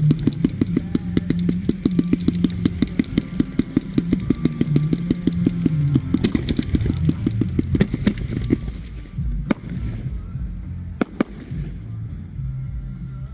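Fireworks going off in a fast crackling string of sharp reports, several a second, which stops about nine seconds in and gives way to a few single loud bangs a second or more apart. Music plays underneath.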